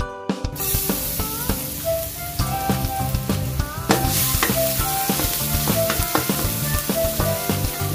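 Oil sizzling in a hot wok, getting suddenly louder about four seconds in as minced garlic hits the oil and is stirred with a wooden spatula.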